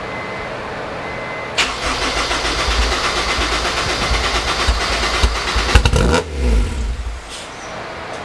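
Honda S2000's four-cylinder engine starting: a steady whir, then it catches about a second and a half in and runs loud and uneven. About two-thirds through it drops back to a quieter, steadier idle. The engine is on a rough preliminary fuel tune after a new intake manifold was fitted.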